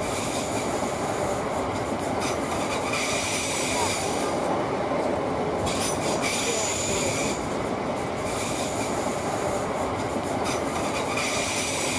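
Southeastern Class 465 Networker electric multiple unit running past on the tracks: a steady rumble of wheels on rail, with a high thin squeal that comes and goes every few seconds as the carriages pass.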